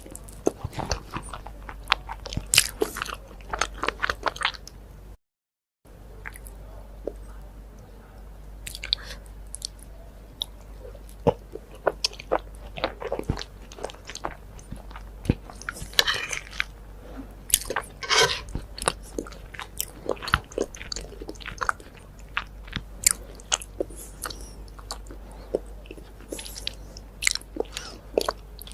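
Close-miked eating: a person biting and chewing food, with many short crunchy clicks and crackles. The sound cuts out completely for about half a second roughly five seconds in.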